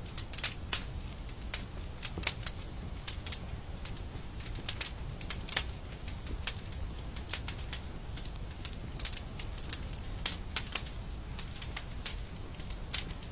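Wood fire in a fireplace crackling, with irregular sharp pops and snaps several times a second over a steady low rumble of the burning.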